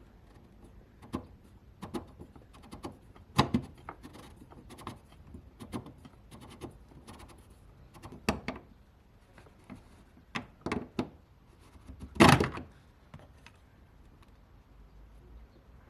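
Irregular clicks, taps and knocks of tools and parts being handled, with one louder knock about twelve seconds in.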